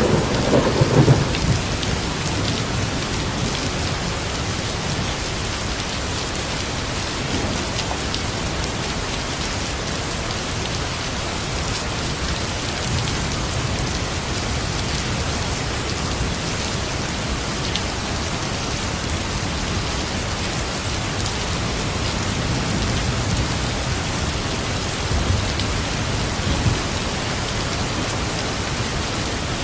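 Steady rain falling, an even hiss throughout. It opens on the tail of a low thunder rumble that fades about a second in, and faint low rumbles return later.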